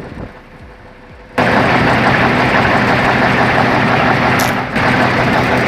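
Heavy vehicle engine running loud and steady, cutting in suddenly about a second and a half in, with a brief dip a little before the end.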